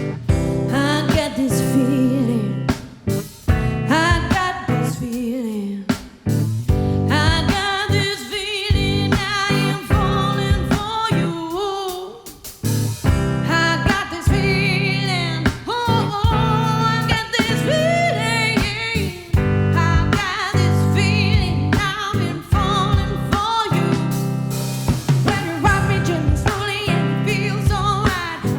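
A singer performing a pop/soul song live with guitar accompaniment: a melodic vocal line over steady strummed chords.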